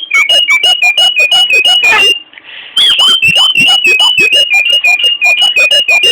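Budgerigar chirping loudly in a fast, even run of short high calls, about five or six a second, flicking between two close pitches, with a brief break a little over two seconds in.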